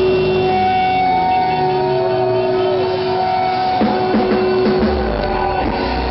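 Live rock music with electric guitar and drums, played loud.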